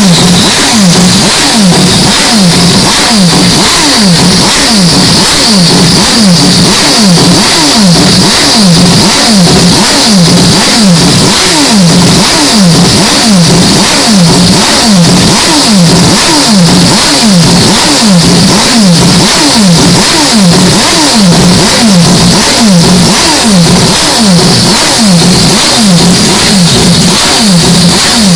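Mazda 767B's four-rotor rotary engine revving, very loud and distorted, its pitch falling again and again about every three-quarters of a second.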